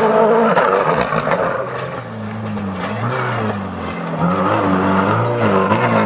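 A World Rally Car's turbocharged four-cylinder engine at full throttle through the gears. Its pitch climbs and drops again and again as the driver shifts and lifts, louder near the start and again in the second half.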